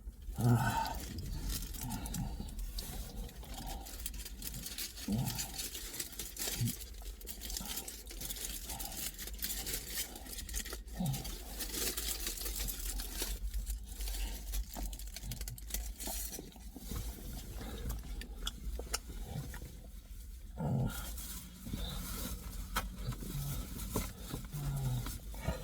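A person eating a pork döner kebab close to the microphone: chewing and mouth noises with small crackles, and a few short low hums now and then.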